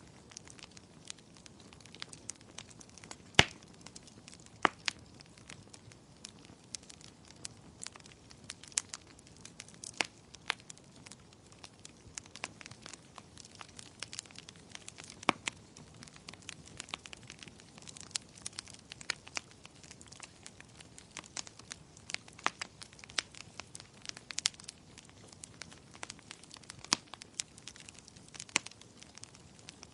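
Wood fire crackling, with frequent irregular sharp pops and snaps over a soft hiss; one loud pop about three seconds in.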